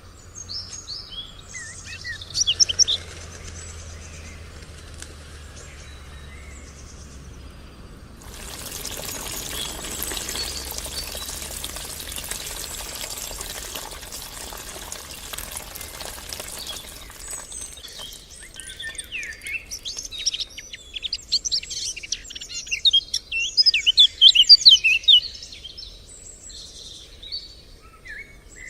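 Birds chirping and singing, busiest and loudest in the second half. For about nine seconds in the middle a steady rushing hiss, like pouring or spraying water, covers them and then stops.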